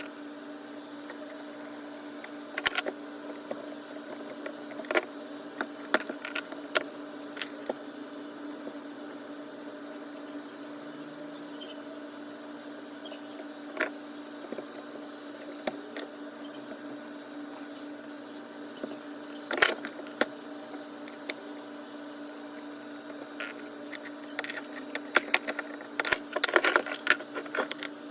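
Scattered clicks and small metallic knocks of angle-grinder parts being handled and fitted back together during reassembly, busiest near the end, over a steady background hum.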